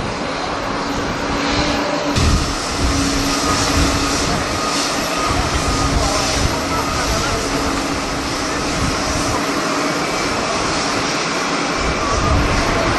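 Jet airliner engines running with a steady hum, mixed with strong wind gusting irregularly on the microphone.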